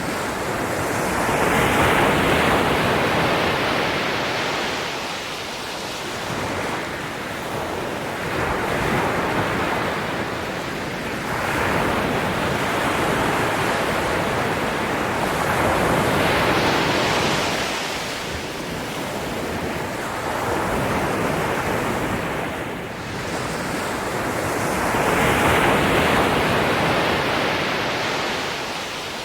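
Ocean waves breaking and washing on a shore, one surge after another every few seconds, with a steady rush between them.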